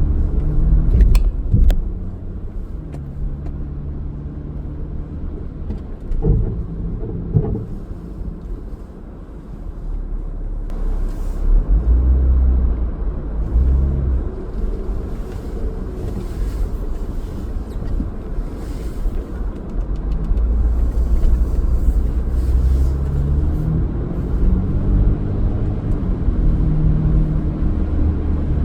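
Car driving on a city street: steady low engine and road rumble, with a few sharp clicks and knocks near the start and again about six seconds in.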